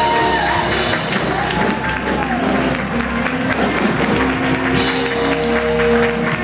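Live church worship band playing sustained chords, with a congregation clapping and cheering over it.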